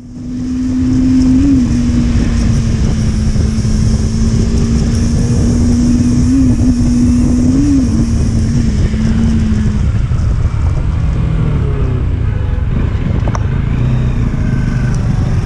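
Motorcycle engine running at a steady cruising speed, its note lifting briefly a few times and dropping away about ten seconds in, over a heavy rush of wind and road noise.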